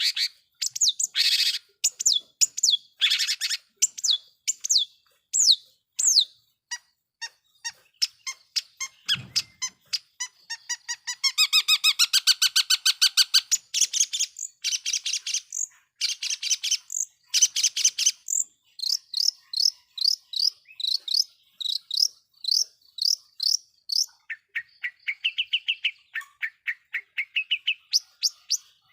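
Long-tailed shrike (cendet) singing a fast, varied song of sharp chirps and whistled slurs, with a rapid trill about a third of the way through. It is a vigorous ('gacor') trigger song meant to set other shrikes singing.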